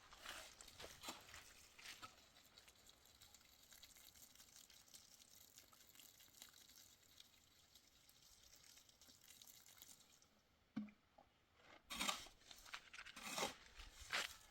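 Mostly near silence with faint scattered crunching and rustling. A few short, louder knocks or rustles come in the last few seconds.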